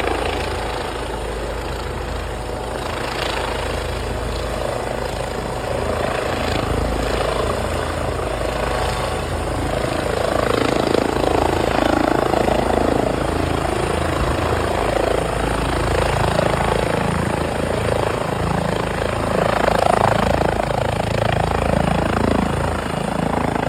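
Air ambulance helicopter running steadily, getting somewhat louder partway through.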